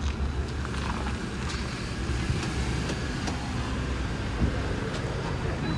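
Car engine and road noise, a steady low rumble with a few faint light clicks.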